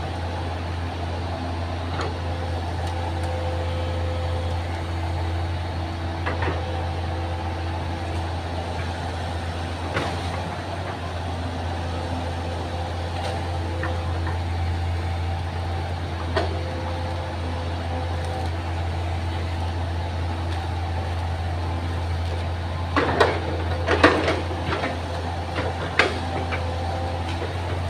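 Excavator's diesel engine running steadily with a low hum and a few held tones above it, with occasional single knocks and a burst of clanks and thuds near the end.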